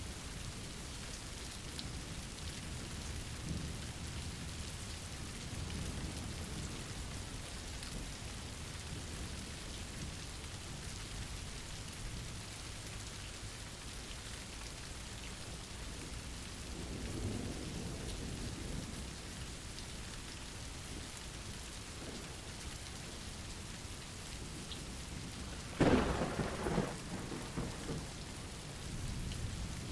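Steady rain with low rolling thunder, a softer rumble swelling about halfway through, and a sudden loud thunderclap near the end that rumbles away over a couple of seconds.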